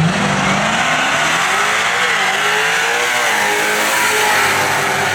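Drag-racing vehicle at full throttle down the strip, engine pitch climbing steeply and dropping back at gear shifts about two and three seconds in.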